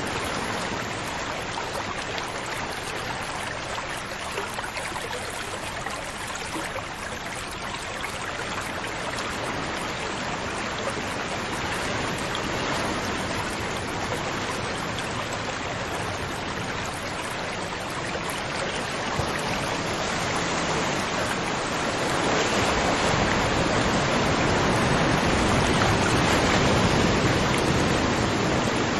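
River water flowing steadily: a continuous rushing wash that grows fuller and louder about three-quarters of the way through.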